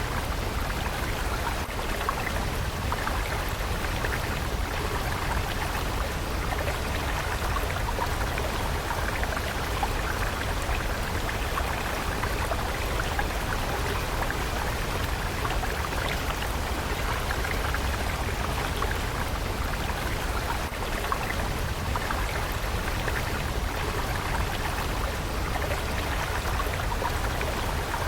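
Flowing stream: a steady, unbroken rush of running water with a low rumble underneath.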